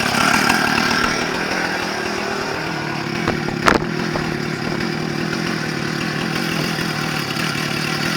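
Two-stroke chainsaw engine running steadily at low speed. It eases down a little about a second in, and there is one sharp click near the middle.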